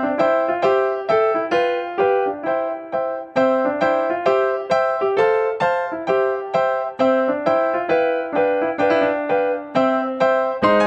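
Background music: a piano-like keyboard playing a light tune of short, evenly paced notes, about three a second.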